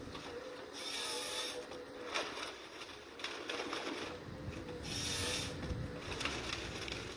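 Forestry machine working: a steady wavering whine with scattered mechanical clicks, and two short hisses, about a second in and about five seconds in.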